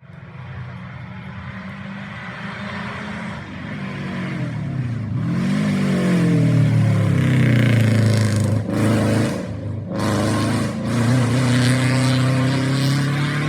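Rally car engine approaching, then revving hard as it accelerates through the corner, with three short breaks in the engine note as it shifts gears.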